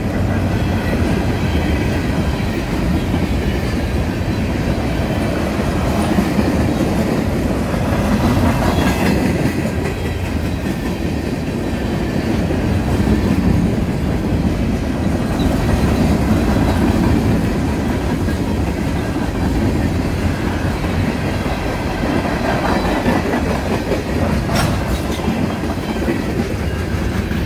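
Freight cars of a long mixed freight train rolling past close by, steel wheels running over the rails in a steady, loud stream of noise.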